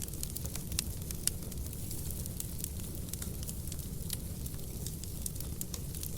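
Wood fire burning in a fireplace: a steady low rumble of flames with frequent sharp crackles and pops from the logs, a couple of louder pops about a second in.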